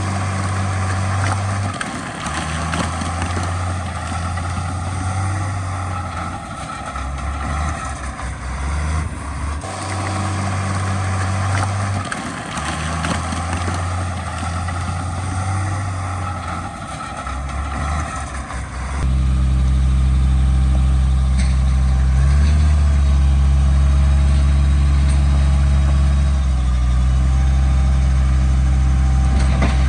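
Heavy diesel earthmoving machinery running under load. About two-thirds of the way in the sound changes abruptly and gets louder, with a steadier low drone.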